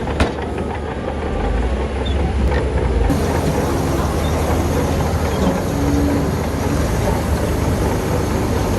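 Heavy diesel earthmoving machinery working with a steady rumble and rattle, with one sharp knock just after the start.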